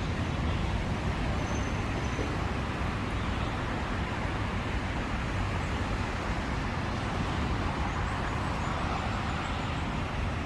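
Steady city road traffic noise, an even low hum and hiss with no single vehicle standing out.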